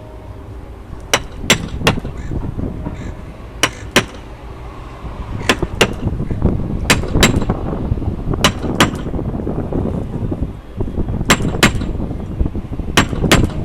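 Mallet striking a caulking iron, driving caulking cotton into a wooden boat's plank seam: sharp strikes, mostly in pairs, repeating every second or two.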